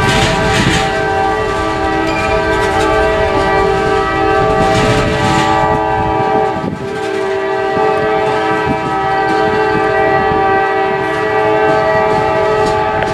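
Multi-chime air horn on a GE C40-9W diesel locomotive sounding a long, steady blast that dips briefly about halfway, over the rumble of the passing train.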